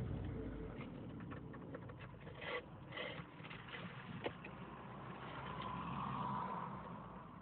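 Car engine running, heard from inside the cabin, its low rumble easing off over the first couple of seconds, with a few light clicks. The car has a transmission fault that the owner says brings up warning alarms and makes the engine rev high without the speed rising.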